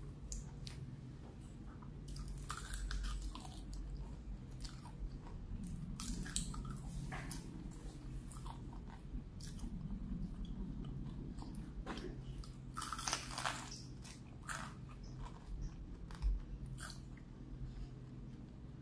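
Close-miked chewing and biting of fried chicken, with irregular crisp crunches of the fried coating, thickest about two-thirds of the way through.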